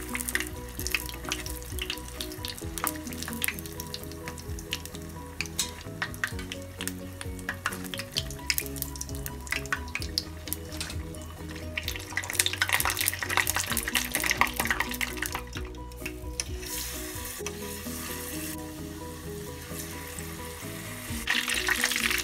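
Batter-coated hard-boiled eggs deep-frying in hot oil: a crackling sizzle that grows louder for a few seconds about halfway through and again near the end, over background music.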